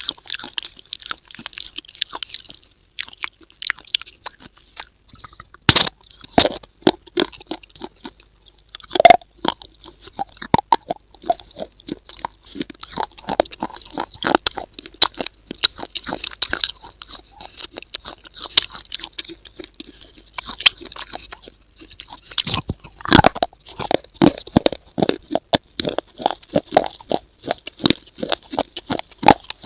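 Irregular crunching and crackling clicks, with a few louder sharp cracks, over a steady high-pitched hiss.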